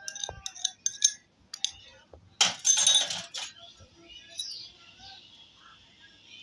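A spoon clinking and tapping against the rim of a bowl as a spice paste is added to chicken, with a louder, rougher scrape about two and a half seconds in.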